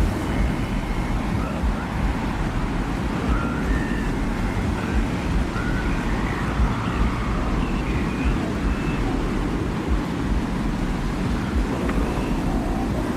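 Steady, low rumbling desert wind ambience, with a few faint short higher tones drifting above it.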